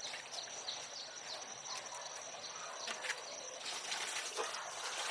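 Birds chirping: short, high, falling chirps repeated several times a second, over a steady high insect drone. A noisy hiss comes up near the end.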